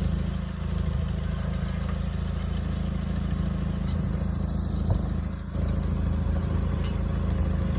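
Old 1962 lift truck's engine running steadily with a low rumble, dipping briefly a little after five seconds and then picking up again.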